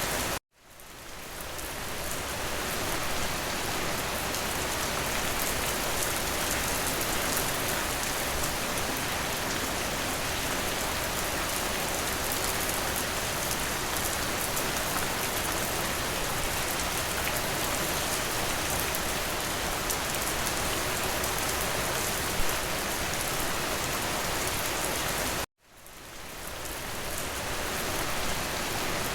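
Steady rain, an even hiss. Twice the sound cuts out suddenly and fades back up over a couple of seconds.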